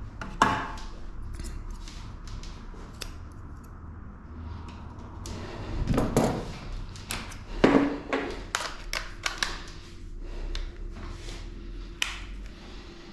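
Grooming scissors snipping through a dog's matted tail fur: a run of short, sharp, irregular snips, busier and louder about halfway through.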